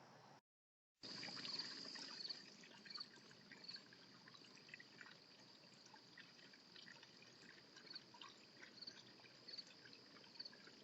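Faint trickling and dripping water, with many small irregular drips and a steady high-pitched tone running through it.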